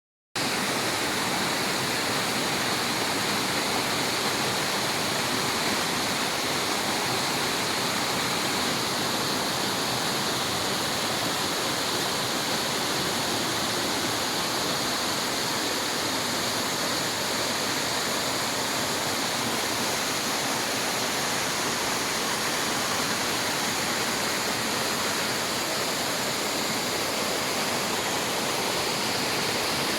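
Waterfall: water pouring and splashing in a steady, even rush that starts abruptly at the very beginning.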